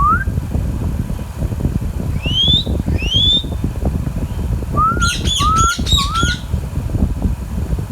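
Indian ringneck parakeet calling in short rising whistles: one at the start, two higher ones about two and three seconds in, then a quick run of about four harsher rising chirps about five seconds in. A steady low rumble runs underneath.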